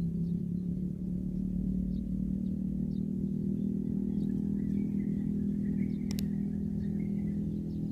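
A steady low engine-like hum, with faint short high chirps over it, a thin wavering whistle in the second half and a single sharp click a little after six seconds in.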